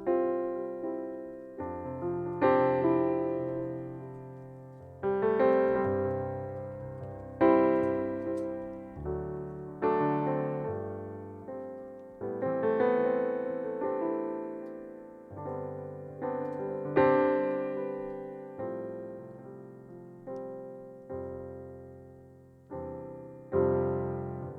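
Slow solo piano music: chords struck about every two to three seconds, each left to ring and fade.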